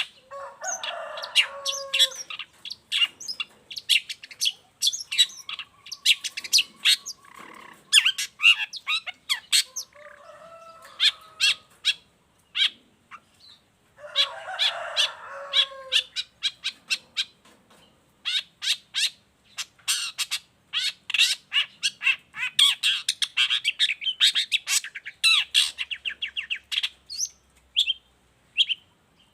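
Long-tailed shrike (cendet) singing in full voice: fast runs of sharp, high chirps broken by a few lower, harsher phrases, with brief pauses between bouts.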